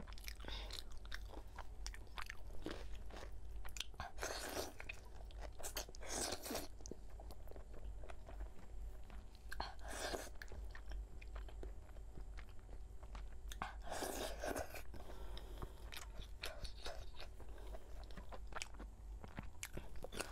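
A person eating spicy pork on the bone close to the microphone: wet chewing and biting with many small clicks, and four louder mouthfuls spread through.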